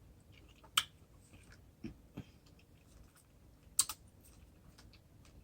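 Someone eating: a handful of sharp mouth clicks and soft knocks, the loudest about a second in and again near four seconds, over quiet room tone.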